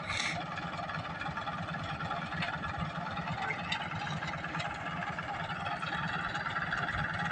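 Tractor diesel engine running steadily with a pulsing low hum, and a short hiss just after the start.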